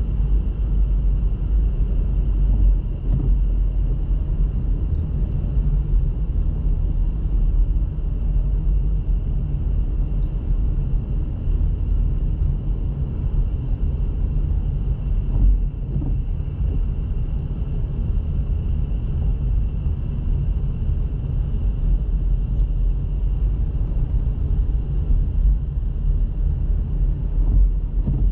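Car driving: a steady low rumble of road and engine noise, with a few faint knocks.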